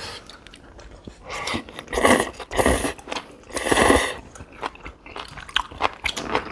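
Close-miked eating sounds: people chewing and biting chewy rice cakes and beef, with small mouth clicks and a few louder noisy bursts between about two and four seconds in.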